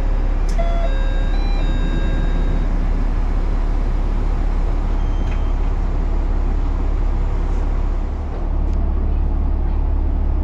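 Nagara River Railway diesel railcar running, a steady low rumble with a few short high squeaks in the first three seconds.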